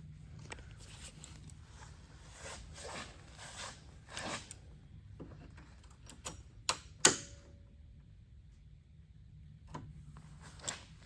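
Hand work on a car: scattered rustling and light knocks of tools and parts being handled, with two sharp clicks about seven seconds in, the second ringing briefly like metal on metal.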